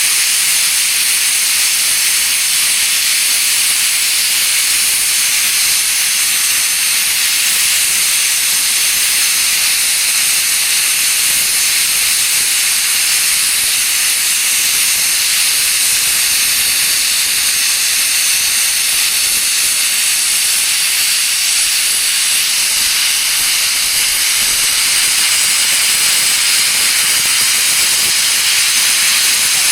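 Class 01 express steam locomotive 01 066 letting off steam in a loud, steady, high hiss that holds without a break.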